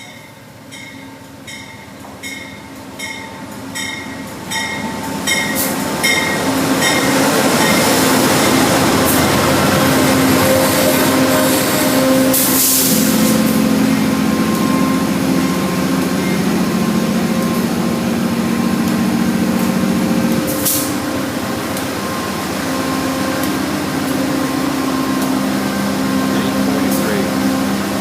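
A train passing on the line: a regular ticking about twice a second at first, then the sound swells over about six seconds into a steady loud rumble with a low hum that holds for the rest of the time.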